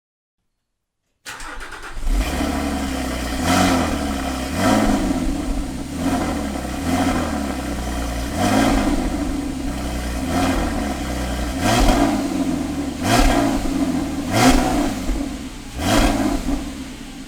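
Porsche Cayman S 987.2's 3.4-litre flat-six, exhaust manifold semi-decatted with one catalyst brick removed, idling and blipped about nine times after a second of silence. Each blip rises and falls in pitch within about a second.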